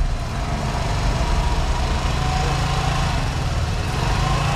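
Vespa S125 scooter engine running at a steady idle.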